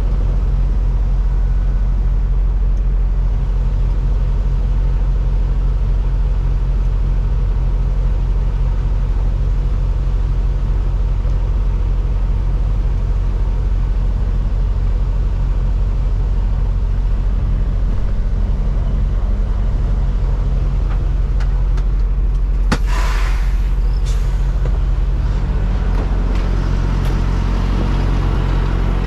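Semi truck's diesel engine running steadily at low revs while the trailer's tandem axles are slid. About three-quarters of the way through there is a short burst of air hiss.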